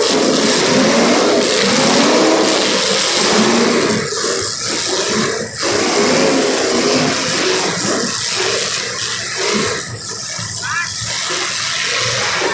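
Engines of several small race cars running together on track, their pitch rising and falling over and over as they go around.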